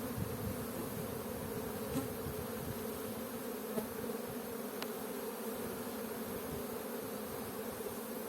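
Honey bee colony in an open hive humming steadily, a dense even buzz with a few faint ticks.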